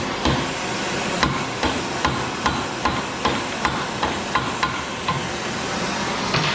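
Hammer blows on a snowblower skid end, bending it up into a ski curve: a steady run of ringing metal-on-metal strikes, about two to three a second, over a steady hiss.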